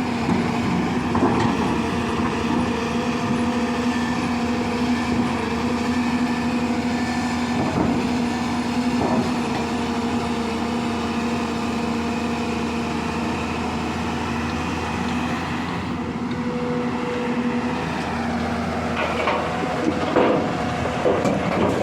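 Heavy diesel engine running at a steady pitch, with a few sharp clanks about eight and nine seconds in and several more near the end.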